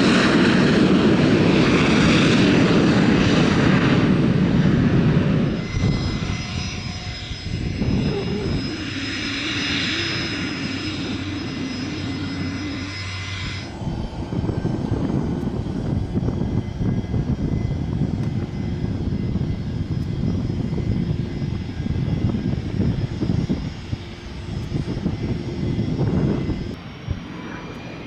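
Airliner engines running, a dense rushing noise with a steady high whine, changing abruptly a few times. Near the end a whine rises in pitch.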